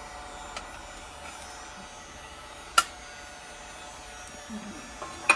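Two sharp knocks from hand tools or the metal trim piece being handled on the bench, about two and a half seconds apart, the second the louder. A steady hum runs underneath.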